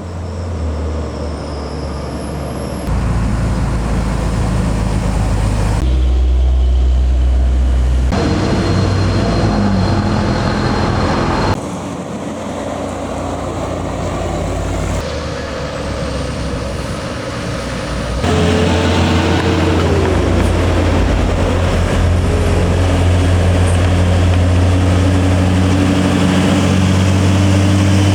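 Heavy diesel trucks' engines labouring up a steep climb, a strong low drone under road and engine noise, with the sound jumping abruptly several times from one truck to another.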